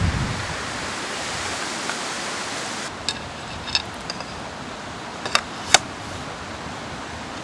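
Steady rushing of a mountain valley stream, with a few sharp clicks or taps between about three and six seconds in.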